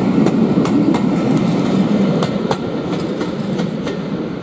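Passenger coaches of a departing train rolling past, their wheels clicking irregularly over rail joints above a steady rumble that fades as the train draws away.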